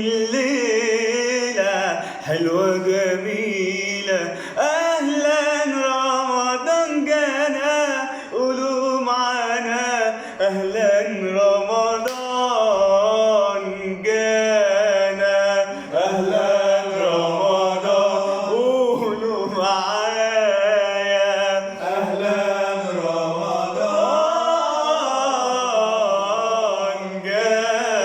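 A male voice singing a long, wavering melismatic passage, sung without clear words, over a sustained low held tone.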